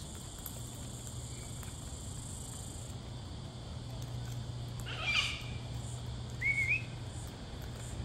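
A high insect drone stops about three seconds in, over a steady low hum; then birds call: a short harsh squawk about five seconds in and a brief warbling whistle just after.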